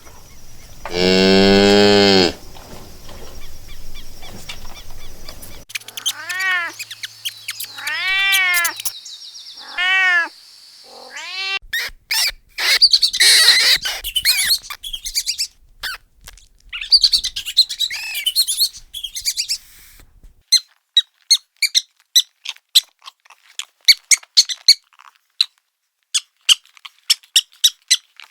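A string of different animal calls: a long low moo-like call, then three rising-and-falling calls, then a noisy stretch, and finally a long run of short, quick chirps and clicks.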